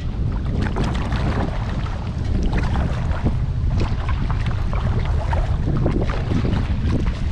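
Kayak paddle strokes dipping and splashing in lake water, with drips and trickles, the splashes coming in clusters every second and a half to two seconds, over steady wind noise on the microphone.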